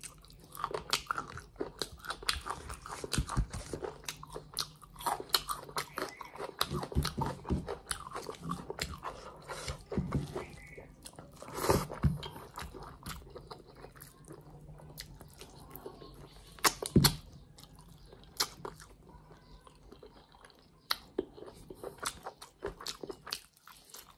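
Close-miked mouth sounds of a person eating chicken and rice by hand: chewing with wet smacks and sharp, irregular clicks, a few louder ones about halfway through.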